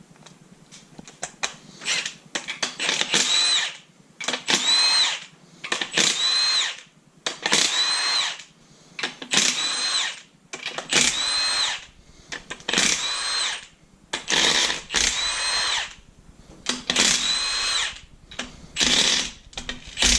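Handheld power tool, a drill or power driver, unscrewing bolts on an LS V8 engine one after another: a series of short runs about every two seconds, each whining up and winding down again.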